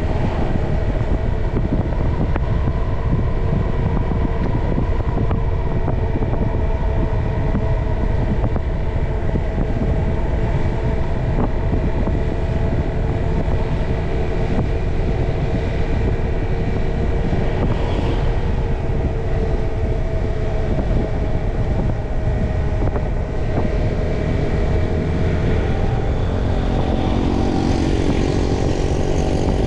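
Motorcycle running steadily while riding along, its engine tones over a strong low rumble; near the end the engine pitch changes.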